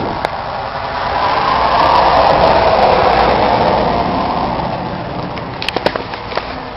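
Vehicle noise swelling up and fading away, like a vehicle passing, followed by a few sharp clicks near the end.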